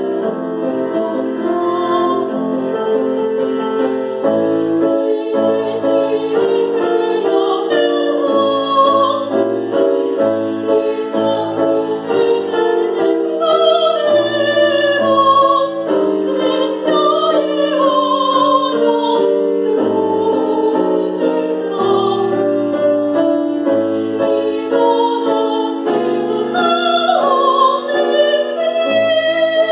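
A woman singing in classical operatic style with vibrato, accompanied by piano.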